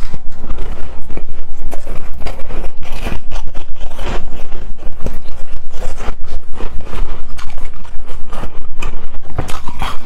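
Shaved ice crunching and scraping close to the microphone: a loud, quick, unbroken run of short crisp strokes.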